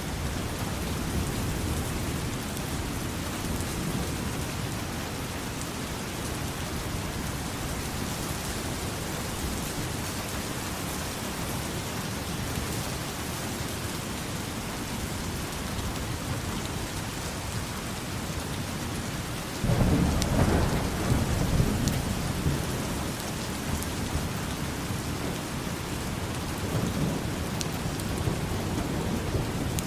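Steady heavy rain with thunder: a loud low rumble breaks in suddenly about two-thirds of the way through and fades over several seconds, and a softer rumble follows near the end.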